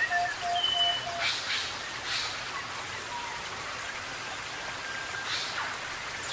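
Forest birds calling: an even series of short, low whistled notes, about three a second, that stops about a second in, with a few brief, thin higher whistles later. A steady background hiss with a few soft swishing bursts runs beneath.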